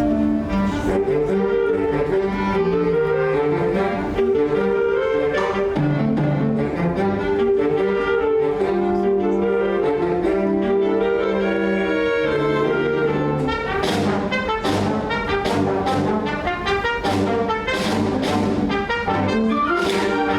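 High school concert ensemble playing live, with held and moving notes in the low and middle range. About two-thirds of the way in, sharp percussion strokes join at roughly two a second.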